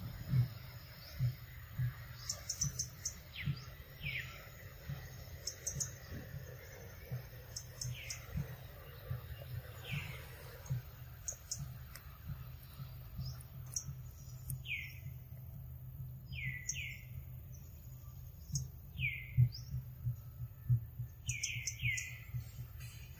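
A forest bird repeating a short, falling whistled call every few seconds, twice in quick pairs near the end. Irregular soft low thumps close to the microphone sound beneath it.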